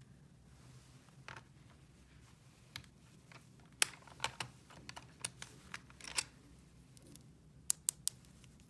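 Small plastic toy pieces clicking and tapping as they are handled: about fifteen short, sharp clicks at an uneven pace, the loudest about four seconds in.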